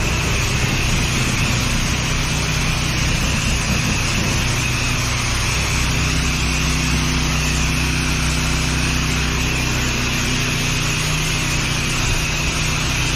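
Pressure washer engine running steadily, with the even hiss of the water jet spraying.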